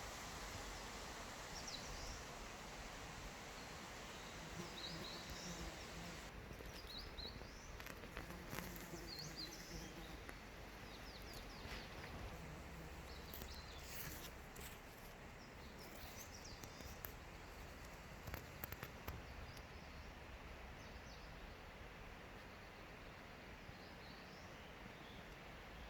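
Faint forest ambience: a steady low hiss with scattered short, high bird chirps, and a few brief clicks about midway.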